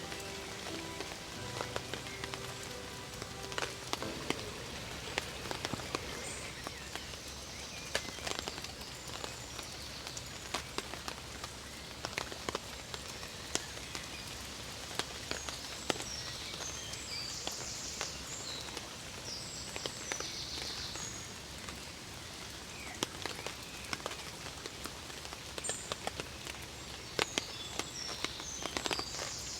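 Light rain pattering steadily outdoors, with scattered sharp taps and drips and short high chirps now and then.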